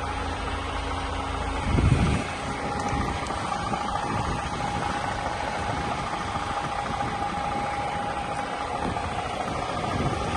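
DAF XF 480 tractor unit's PACCAR MX-13 six-cylinder diesel idling steadily, with a short rumbling thump about two seconds in.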